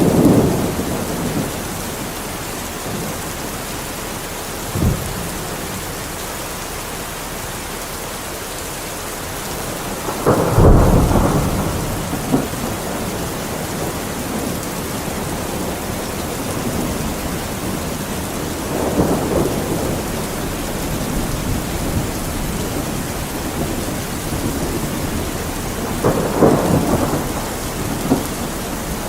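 Steady rainfall with thunder rumbling several times, the loudest roll about ten seconds in.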